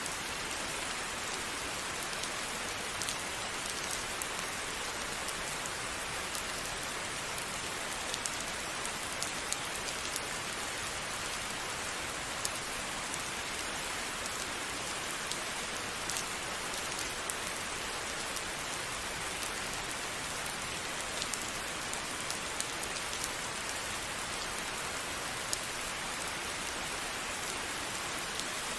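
Steady rain falling on a surface, an even hiss with many small distinct drop ticks scattered through it.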